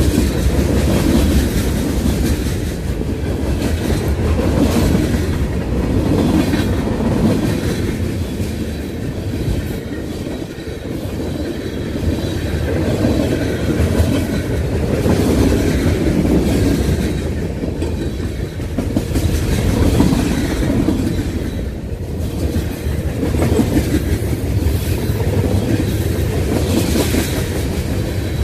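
Freight train cars rolling past at close range: a steady rumble of steel wheels on rail with a clickety-clack, swelling and easing every couple of seconds as each car's wheel sets go by.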